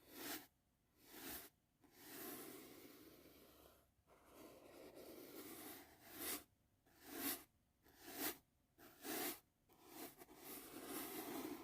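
Soft brush swept back and forth over the microphone in a string of separate swishes, some short and quick, a few drawn out over a second or two.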